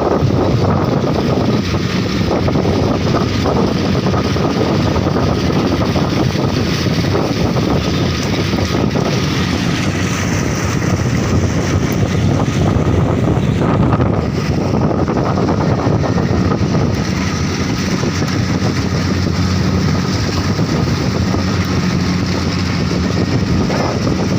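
Rice combine harvester's diesel engine and threshing machinery running steadily at a constant loud level.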